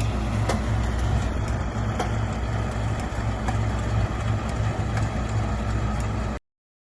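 Tractor engine running steadily, with a few sharp clicks over it; the sound cuts off suddenly near the end.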